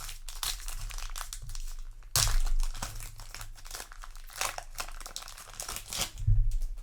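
Foil booster pack being torn open and crinkled, with a burst of crinkling about two seconds in and another near the end.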